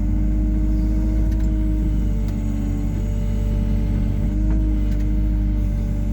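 Hyundai R140W-7 wheeled excavator's diesel engine running steadily with a constant hum as the machine dumps soil, with a few faint knocks.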